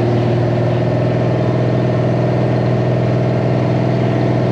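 A loud race-truck engine idling steadily, its pitch holding level with a fast, even pulsing.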